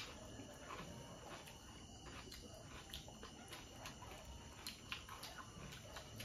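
Faint chewing of pani puri: soft, scattered mouth clicks and crunches of the crisp puri shells, a few a second apart, over quiet room tone.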